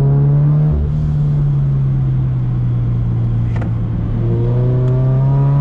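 Turbocharged Scion FR-S's 2.0-litre flat-four engine pulling under acceleration. The revs drop about a second in, run steady, then climb again from about four seconds in, over a constant low drone.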